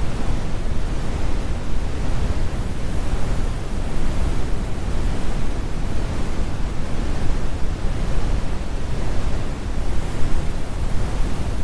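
Steady, computer-generated brown noise: an even, deep rumble with the highs rolled off and no changes or events.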